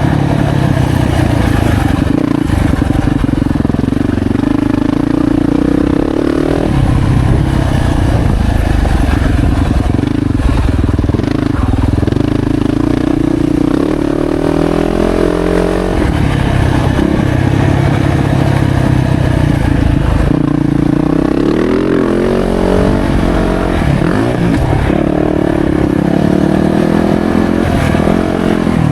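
Yamaha YZ450F's 450cc four-stroke single-cylinder engine, ridden hard: the pitch climbs under throttle and drops sharply several times as it shifts and backs off.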